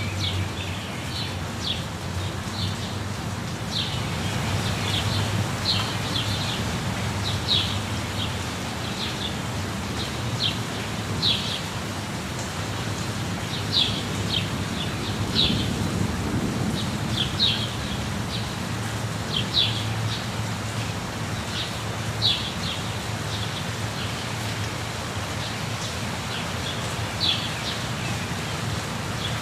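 Steady rush of a waterfall with birds calling over it in short, high chirps, often in quick runs of two or three, every second or two.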